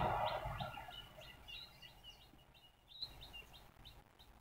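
Noise of a passing express train fading away over about the first second as its last coaches recede. After that come faint, evenly repeated bird chirps, about three a second, with a few longer chirps in between.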